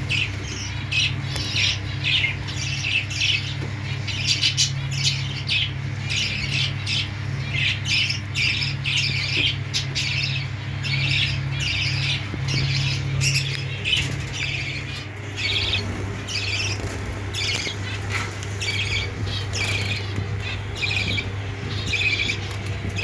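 Lovebirds squawking: a steady stream of short, shrill calls, one after another, over a steady low hum.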